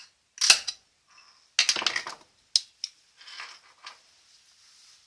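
Knife scraped down a ferro rod (fire steel) to throw sparks onto a wax-soaked cotton pad: a short rasping strike, then a longer one of several quick strokes, followed by a few light clicks.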